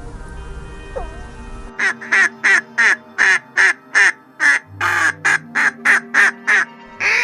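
A duck quacking in a rapid, even series, about three quacks a second, starting a little under two seconds in.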